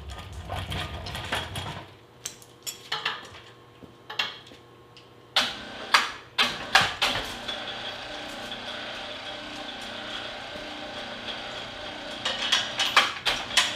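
Metal parts of an appliance hand truck being handled and fitted by hand: sharp clicks and clanks in several short clusters, with quieter stretches between.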